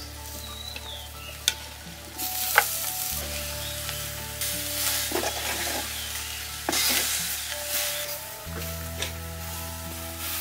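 Peeled rambutan fruit sizzling and frying in a hot clay pot as it is stirred with a spoon. The sizzle comes in several surges, with a few sharp knocks of the spoon against the pot.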